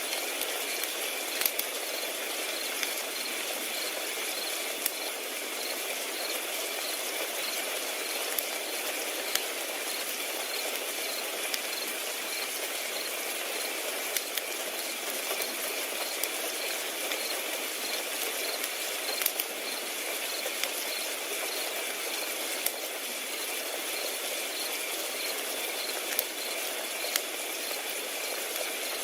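Crickets chirping steadily over a crackling fire, with sharp pops and snaps every second or two over a constant hiss.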